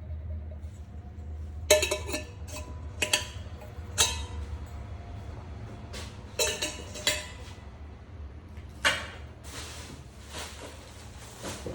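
Metal coffee-making tools clinking and knocking together as they are handled: a dozen or so sharp clinks, some ringing briefly. A longer stretch of rustling noise comes near the end, over a steady low hum.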